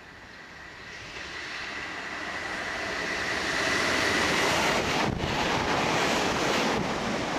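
A Class 313 electric multiple unit approaches and runs past along the platform. The rush of its wheels on the rails swells to its loudest as the cars pass, with a steady high whine over it for the first few seconds.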